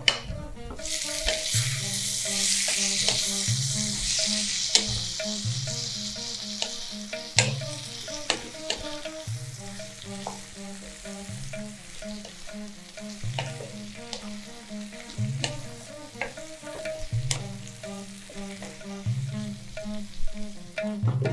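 Sliced bitter gourd and onions frying in oil in a non-stick wok, sizzling while a wooden spatula stirs them and clicks and scrapes against the pan. The sizzle is loudest in the first few seconds, then dies down to a quieter hiss under the spatula's clicks.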